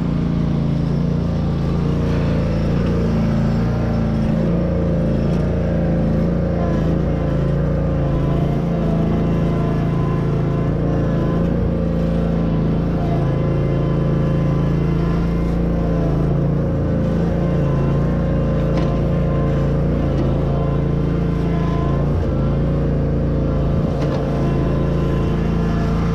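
Zero-turn mower engine running steadily under load while towing a truck chassis.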